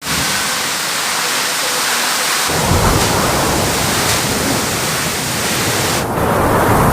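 Strong windstorm: a loud, steady rushing hiss, with rumbling wind buffeting on the microphone from about two and a half seconds in. The sound changes abruptly about six seconds in.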